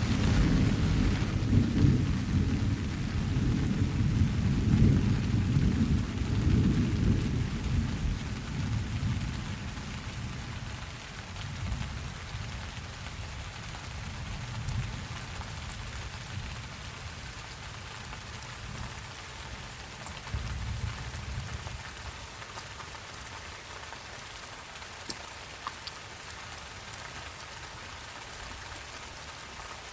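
Steady rain falling, with a long roll of thunder that breaks in at once, rumbles heavily for several seconds and slowly dies away, and a fainter rumble of thunder about two-thirds of the way through.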